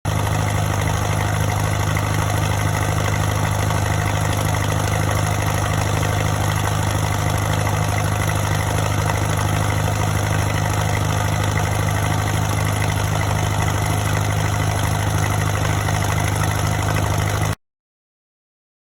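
1937 Farmall F12's four-cylinder gasoline engine running steadily at an even idle, then cutting off abruptly near the end.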